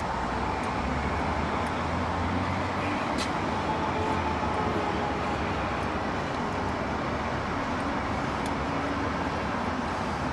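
Steady rushing background noise with a low hum under it, and a faint click about three seconds in.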